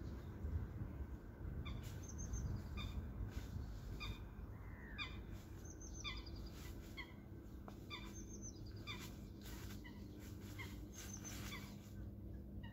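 Birds calling: many short, repeated notes, several a second at times, a few sliding downward, over a low rumble and a steady low hum.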